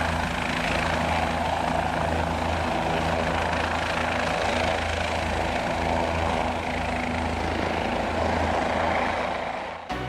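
Helicopter running with a steady rotor and engine drone, fading out about a second before the end.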